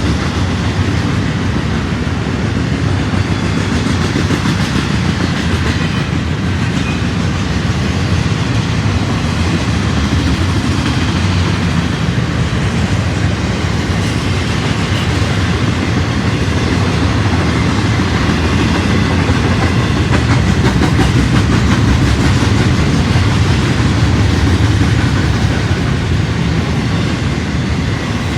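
A train passing close by: the steady rumble of rail cars rolling along the track, with wheels clacking over the rail joints.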